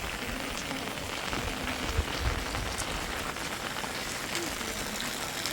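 Heavy rain falling steadily, with a couple of dull low thumps about two seconds in.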